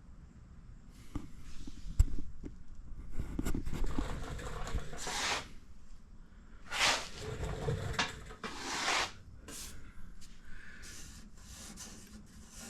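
Handling noises: a sharp knock about two seconds in, then several separate rubbing, scraping strokes, each lasting about half a second to a second.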